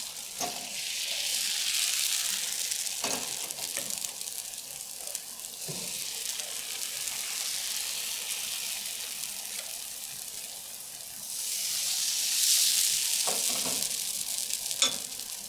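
Bánh xèo batter (rice flour with coconut milk and soda water) sizzling in hot oil in a frying pan. The sizzle swells louder twice, and a few faint knocks come through.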